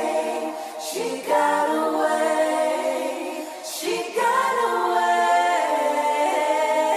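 Layered, choir-like female vocal harmonies with little or no instrumental backing, singing long held chords; new phrases come in about a second in and again about four seconds in.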